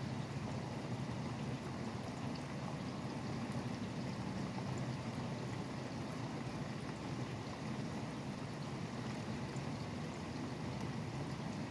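Steady rain falling, with a low, constant rumble of highway traffic underneath.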